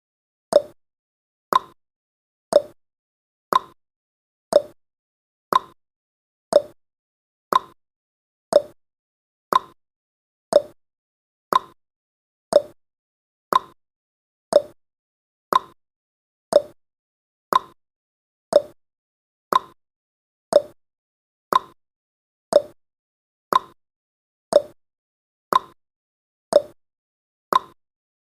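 Clock-tick sound effect: one short, sharp tick every second, evenly spaced, counting off the seconds of a countdown timer.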